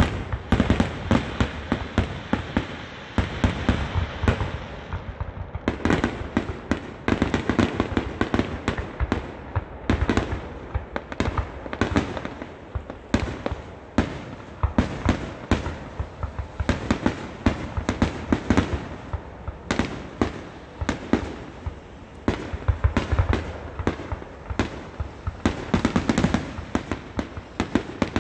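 1.3G display firework shells bursting in quick succession: dozens of sharp bangs and crackles, overlapping, with brief lulls between volleys.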